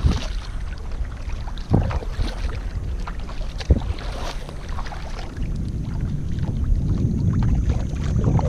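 Wind buffeting an unshielded microphone, a steady low rumble, with three sharp knocks in the first four seconds.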